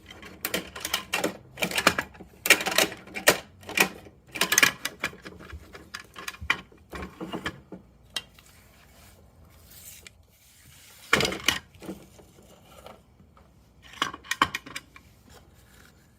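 Plastic Bruder toy garbage truck being worked by hand: quick runs of clicks and rattles from its plastic parts and toy bins, with one louder clatter near the middle and another short run of clicks near the end.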